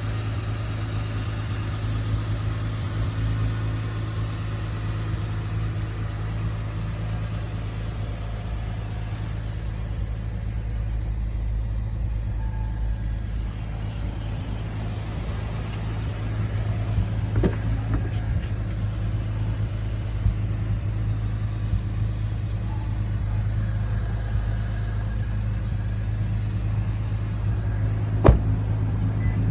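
2010 Lexus IS250's 2.5-litre V6 idling with a steady low hum, with a faint click about two-thirds of the way in and a sharp click near the end.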